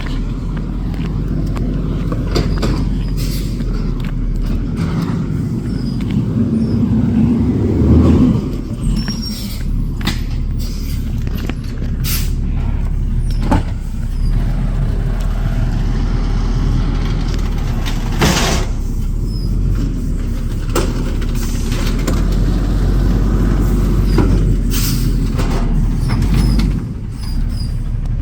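Garbage truck engine running steadily, swelling briefly about eight seconds in, with several sharp knocks and a short hiss of air from the air brakes a little after halfway.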